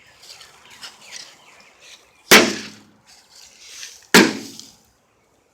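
Two heavy blows on a microwave oven's metal casing, a little under two seconds apart, each with a short metallic ring.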